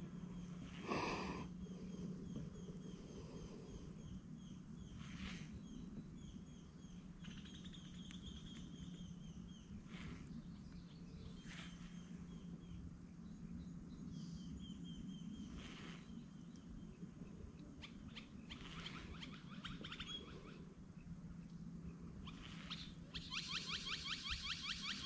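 Birds calling outdoors in repeated series of short, high chirps over a steady low hum. Near the end comes a louder, rapid rattling call.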